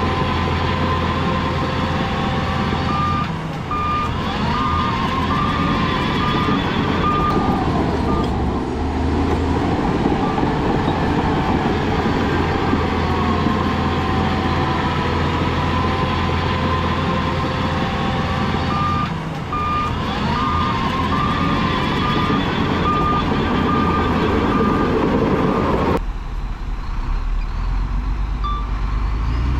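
Heavy diesel earthmoving machine running steadily, with its reversing alarm beeping in two spells of about two beeps a second. The sound changes abruptly near the end.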